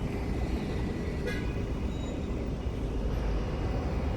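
Buses and road traffic running, a steady low rumble, with one short high-pitched squeak about a second in.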